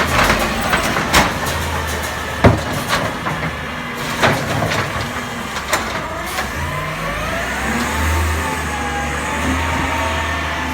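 Garbage truck at work: several sharp bangs in the first half, then the engine revs up under a whine that rises and falls.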